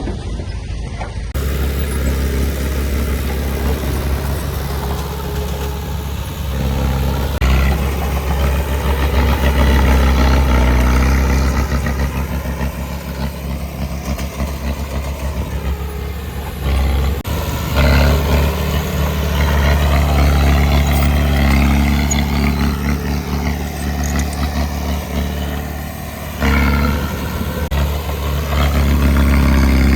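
Heavy diesel earthmoving machinery engine running under varying load, with the sound jumping abruptly a few times.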